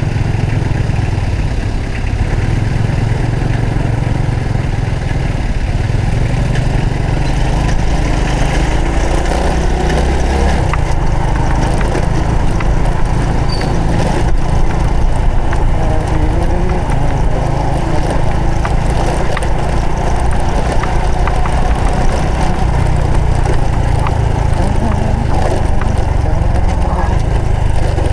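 Honda Supra X 125 FI's single-cylinder four-stroke engine running steadily while the motorcycle is ridden, its note shifting a couple of times, about a third of the way in and again past two-thirds, under a steady rush of wind noise.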